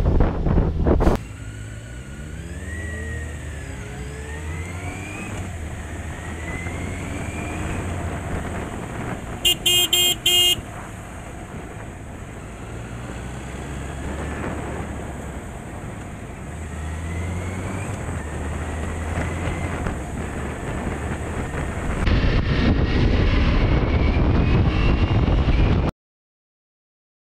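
Motorcycle engine accelerating through the gears, its pitch rising and falling back with each shift. A horn sounds three short beeps about ten seconds in; near the end a louder rushing noise takes over and the sound then cuts out.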